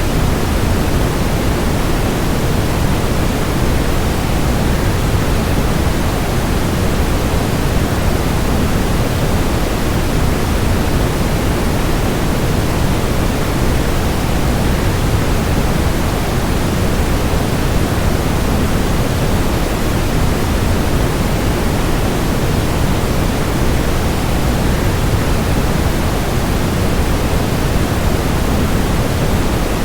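Waterfall sound blended with white noise: a steady, unchanging rush, fullest in the low end.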